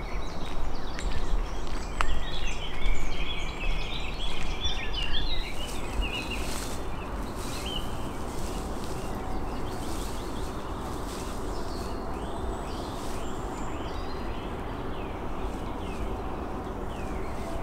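Songbirds singing over a steady low background rumble. There is a busy stretch of quick notes in the first few seconds, then scattered short falling chirps.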